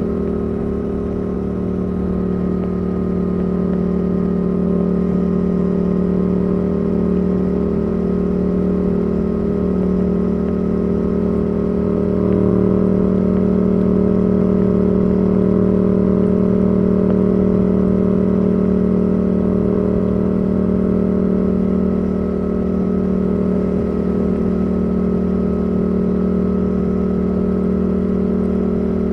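Yamaha R7's CP2 parallel-twin engine through a Yoshimura R77 exhaust, running at steady, near-constant revs while cruising, with a slight swell in loudness about twelve seconds in.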